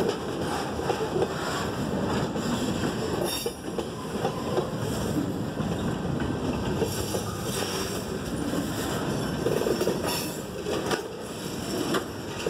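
Freight cars rolling past close by at steady speed: steel wheels rumbling on the rails, with sharper clacks now and then as the wheels cross joints.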